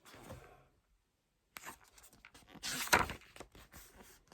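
Paper and card rustling with light clicks as album photocards and inserts are handled, loudest in a short burst about three seconds in.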